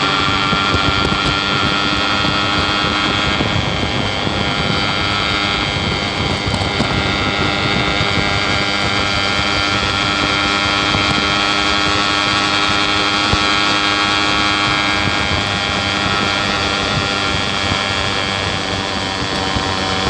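Yamaha RX King's single-cylinder two-stroke engine running at a steady pace under way, with wind rushing over the microphone.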